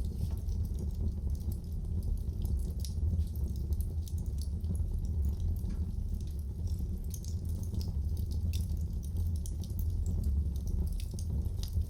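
Wood fire burning in a fireplace, crackling with many small sharp pops and snaps over a steady low rumble of the flames.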